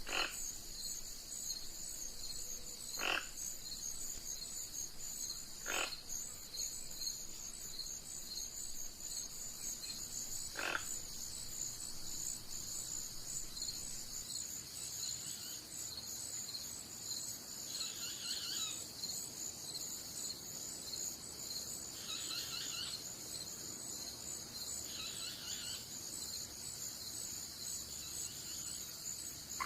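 Steady chorus of insects, a continuous high pulsing trill, with a few short sharp animal calls every few seconds in the first third and some softer calls later on.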